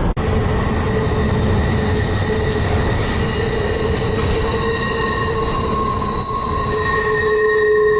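Freight train passing, its steel wheels squealing against the rails in several steady high tones over a low rumble; more squeal tones join about halfway through.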